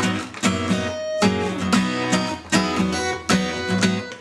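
Acoustic guitar strumming chords in a steady rhythm, a short instrumental passage between sung lines.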